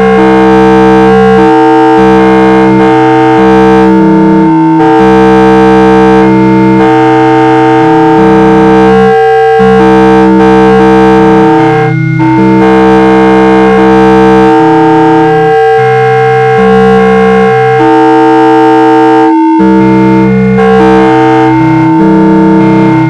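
Synthesized tones generated algorithmically in TouchDesigner. Sustained electronic chords shift every second or two, with a few brief breaks.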